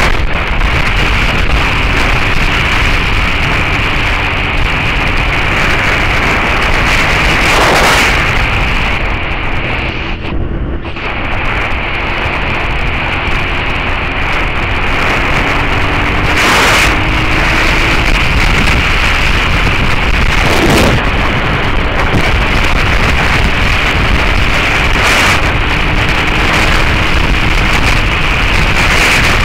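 Heavy wind noise on the microphone of a moving motorcycle, with the Suzuki SV650S's V-twin engine and Beowulf exhaust heard faintly underneath, its pitch rising slowly in places as it pulls. The wind noise dips briefly about ten seconds in.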